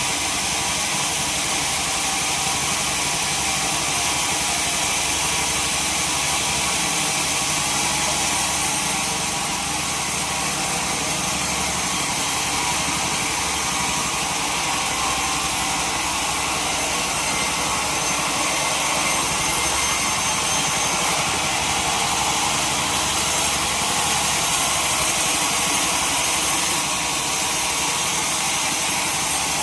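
Sawmill machinery running steadily, a saw working through a log.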